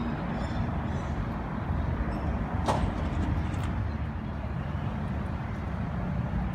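Steady low rumble of city traffic, with one sharp click or knock about two and a half seconds in.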